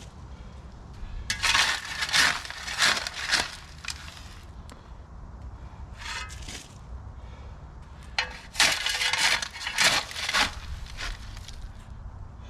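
A steel shovel scooping gravel and tipping it into a post hole, the stones crunching and rattling in two spells of several quick strokes, with a pause between.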